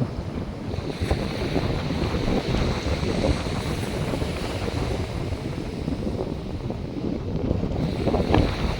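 North Sea surf washing onto the beach, mixed with wind buffeting the microphone as a steady low rumble, with a louder gust or wave surge near the end.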